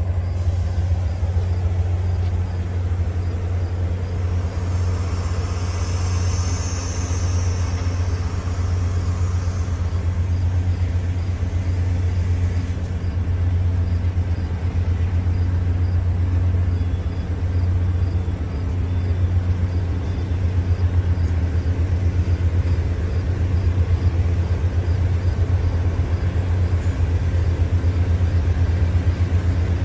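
Diesel freight locomotive engine running, a steady low drone that holds level throughout.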